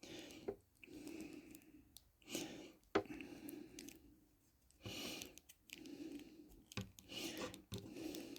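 Faint, on-and-off rubbing and a few sharp clicks of a plastic action figure and its accessories being handled, as a blaster is worked into the figure's hand.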